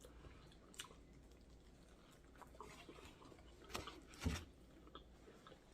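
Faint biting and chewing of a soggy fried hot chicken sandwich, with a few soft mouth clicks, the loudest a little after four seconds in.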